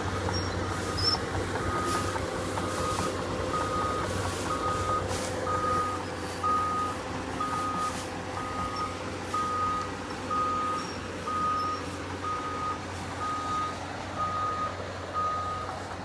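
Excavator's travel/backup alarm beeping steadily, about once a second, over its diesel engine running.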